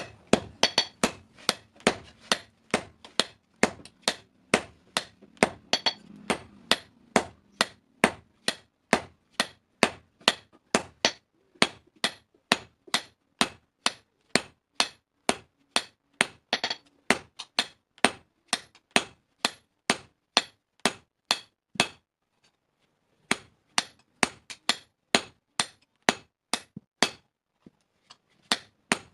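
Blacksmith's hammer striking steel being forged into a hasua, a sickle-like blade: a quick, steady run of ringing blows, about three a second, with a brief pause about two-thirds of the way through and another near the end.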